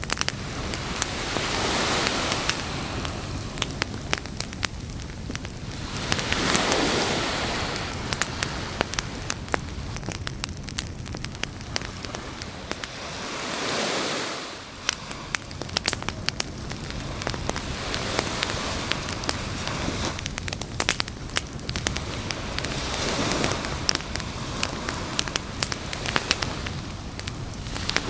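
Campfire crackling and popping with many sharp snaps, over a steady hiss. Every four to five seconds a broad rush swells and fades, like waves washing up on the shore.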